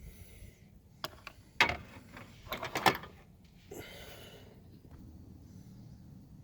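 Metal hand tools being handled: a few sharp clicks and clinks about a second in and again around two to three seconds in, then a short rustle.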